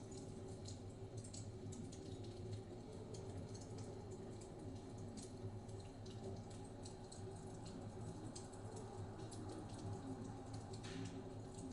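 Wood fire crackling in a fireplace, with a dense run of small irregular pops and snaps over a low steady rumble of blizzard wind.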